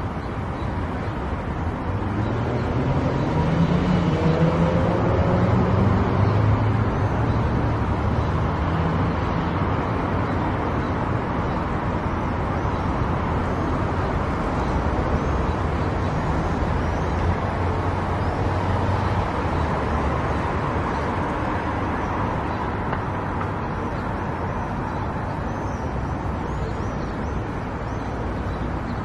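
Car driving along a road: steady engine and tyre noise, with the engine note rising a few seconds in as the car speeds up.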